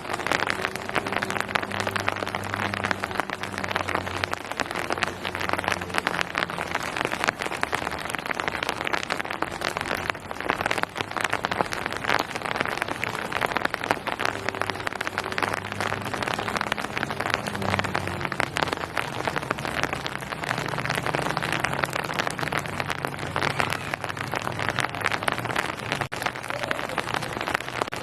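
Steady rain falling on surfaces, with many individual drops pattering through a dense hiss. A faint low hum comes and goes underneath.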